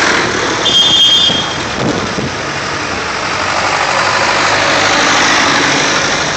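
Vintage tractor engines running, with a brief high-pitched tone about a second in.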